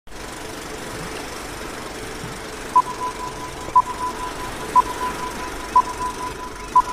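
Steady hiss, then from about three seconds in a steady high electronic tone with a sharper beep on it once a second, five beeps in all, in the manner of a film countdown leader.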